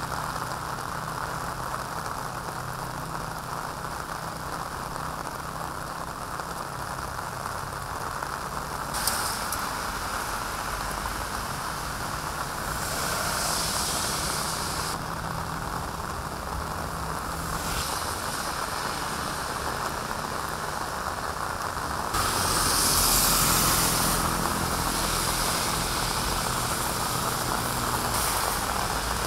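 Heavy rain falling on a wet road: a steady hiss, with a few louder swells lasting a second or more, the loudest about three quarters of the way through.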